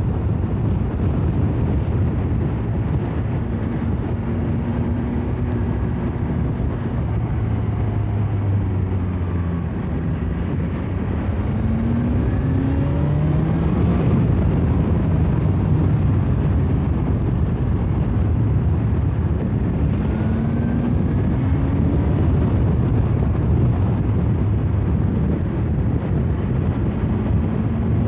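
Heavy wind rush over the microphone of a moving motorcycle, with the BMW S1000XR's inline-four engine underneath, its pitch rising a few times as the bike accelerates.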